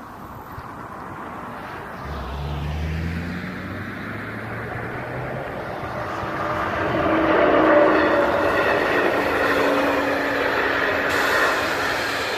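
An electric-locomotive-hauled passenger train approaches and runs over the level crossing. The rumble of the locomotive and of the wheels on the rails grows louder, and is loudest about eight seconds in as the coaches roll past.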